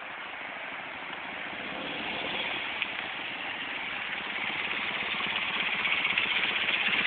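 BMW R90/6 motorcycle's boxer-twin engine running, growing steadily louder as the bike rides up close. A short sharp click comes about three seconds in.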